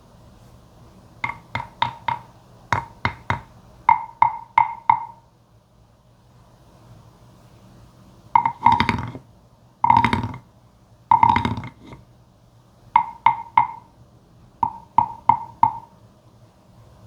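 Wooden frog (toad-shaped guiro) being played, giving woody croaks that ring with a hollow tone. The croaks come in quick clusters of three to five, and in the middle there are three longer, drawn-out strokes of about a second each.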